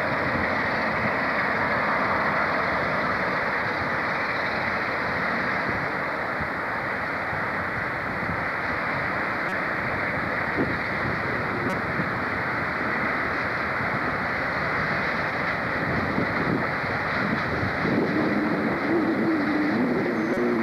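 A train running, a steady rumbling noise, with a wavering low tone coming in about eighteen seconds in.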